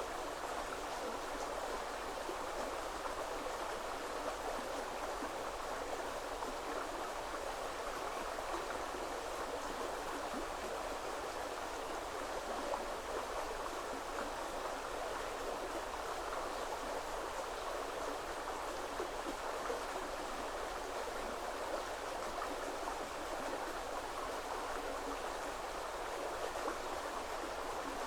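River water running steadily over its bed, an even, unbroken rush.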